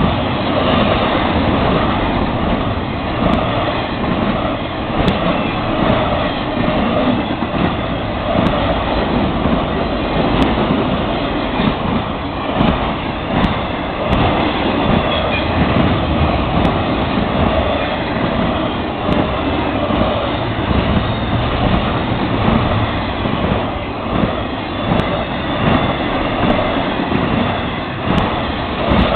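A long intermodal freight train's cars, double-stack containers and trailers on flatcars, rolling past at track speed: a continuous loud noise of steel wheels on rail.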